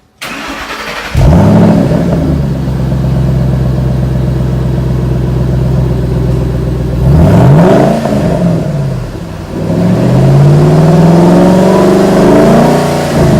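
Supercharged 5.8 L V8 of a 2013–14 Ford Shelby GT500 through its factory exhaust: it starts about a second in with a rev flare and settles into a steady idle, then is blipped once and revved up and back down in a longer pull, with another blip near the end.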